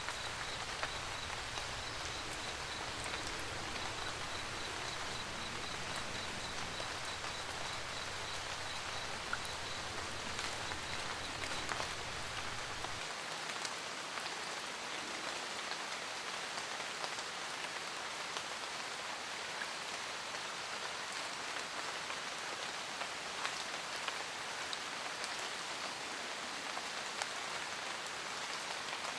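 Steady rain pattering on a roof, full of small drop ticks. Underneath, a low rumble cuts off abruptly about 13 seconds in, and a faint high pulsing chirp, about four a second, fades out after roughly ten seconds.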